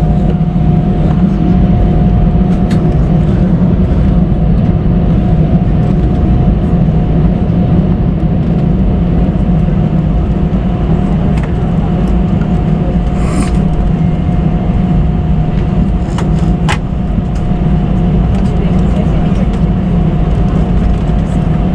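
Airliner cabin noise: a steady, loud drone of the jet's engines and air system with a thin steady whine through it, and a few short clicks.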